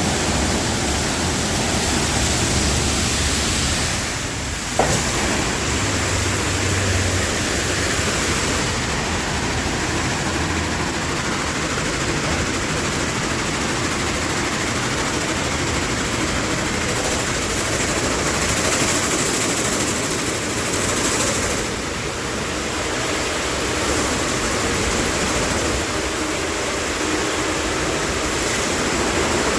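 Automatic car wash at work: a steady rushing noise of water spray, changing in texture several times, with a brief dip and a single click about five seconds in.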